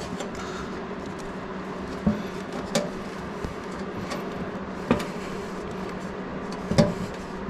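A few short, light clicks and taps from handling rubber hoses and small spring clips on a motorcycle fuel tank, over a steady low hum.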